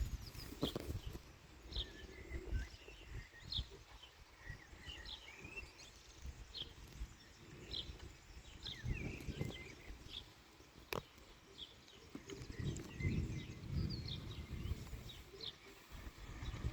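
A bird chirping over and over, a short high call about every three-quarters of a second, over an uneven low rumble. There is one sharp click about eleven seconds in.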